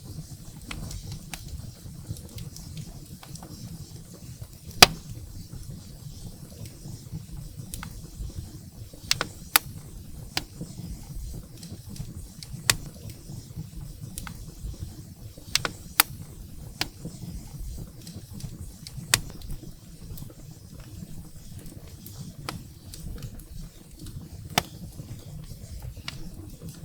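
Firewood burning in a fireplace, crackling with irregular sharp pops over a low steady rumble of the flames; the loudest pop comes about five seconds in.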